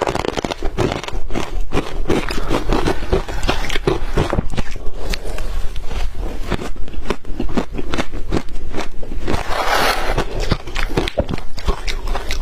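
Shaved ice being bitten and chewed close to the microphone: a continuous run of crisp crunches and crackles, with a longer grinding crunch about ten seconds in.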